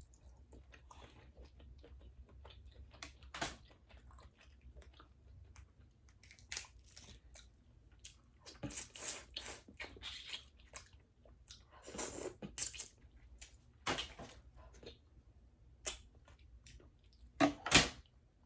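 Close-miked eating of boiled shellfish: wet chewing and smacking with scattered clicks and crackles, busier in the second half, and two loud sharp smacks near the end.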